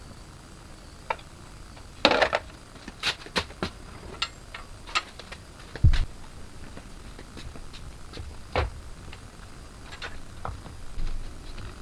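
Irregular metallic clicks and clinks of small tools and parts being handled, with a cluster of rattles about two seconds in and two heavier dull knocks later.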